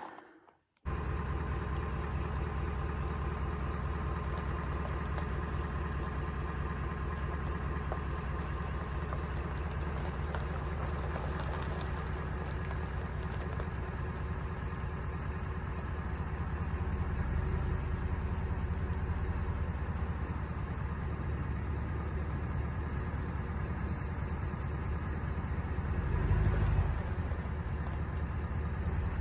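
Pickup truck engine running steadily at idle, with brief low surges about halfway through and again near the end as the truck is eased forward.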